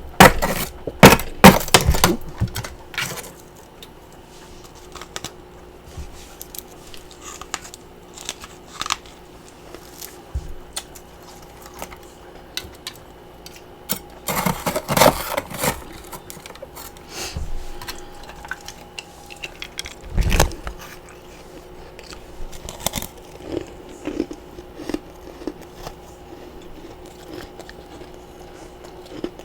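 Freezer frost and ice chunks being bitten and crunched in the mouth, in bursts of crisp crackling near the start and again about halfway through, with scattered small crunches between and a dull thud a little later.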